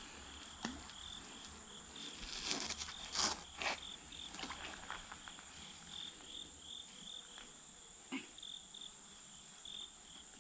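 Steady insect chirping, a short high-pitched pulse repeating about two to three times a second. A few brief rustles and knocks come between about two and four seconds in.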